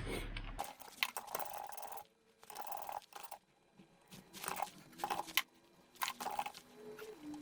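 Hand tools on metal while an Austin-Healey's thermostat housing is unbolted and pulled apart: scattered clicks and short scraping noises in separate bursts, with quiet gaps between them.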